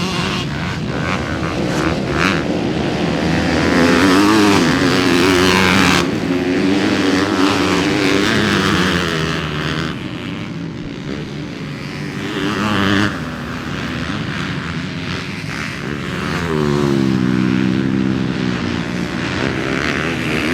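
Motocross dirt bikes racing, their engines revving hard. The pitch climbs and drops again and again as the riders open and close the throttle and shift through the gears.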